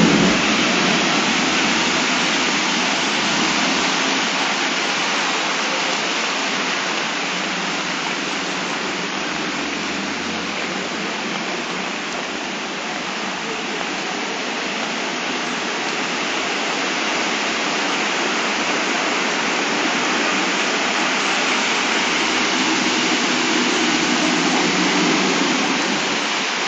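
Torrential cloudburst rain pouring down in a steady, dense hiss, easing slightly midway and swelling louder again toward the end.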